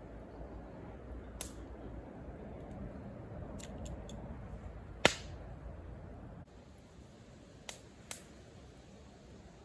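Campfire burning with a low steady hiss and a handful of sharp wood pops, the loudest about five seconds in. The background hiss drops abruptly a little past halfway, and two more small pops follow.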